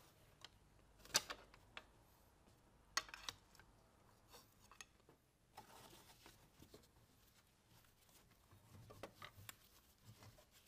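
Quiet stretch with a few sharp metallic clicks and clinks of hand tools being handled, the loudest about a second in and again about three seconds in, plus a brief rustle and soft knocks later.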